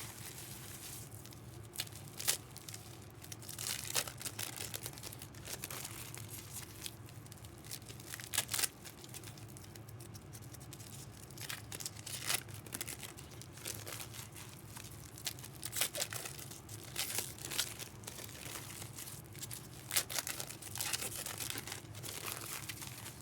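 Irregular crinkling and rustling of handled packaging, in scattered short bursts over a steady low hum.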